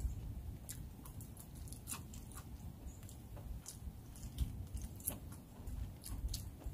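A person biting and chewing a piece of crunchy pan-fried lion's mane mushroom, with irregular small crunching clicks.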